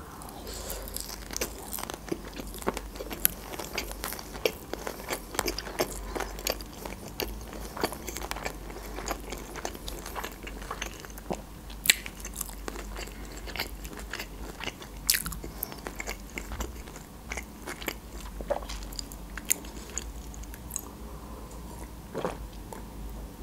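Close-up chewing of sushi rolls: wet mouth sounds with many quick crackling clicks, thickest in the first half and thinning out later.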